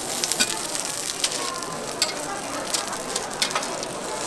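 Battered zucchini and fish jeon frying in oil on a flat griddle: a steady sizzle with scattered sharp clicks as metal spatulas scrape and tap the griddle.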